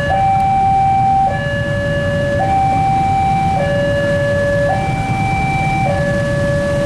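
Railway level-crossing warning alarm sounding, an electronic two-tone signal alternating between a higher and a lower tone about every second, warning that a train is approaching. A steady low rumble runs beneath it.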